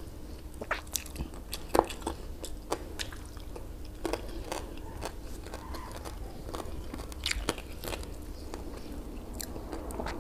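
Close-up eating sounds: chewing and wet mouth smacks while eating grilled fish and rice by hand, as irregular sharp clicks spread through the whole stretch, over a faint steady low hum.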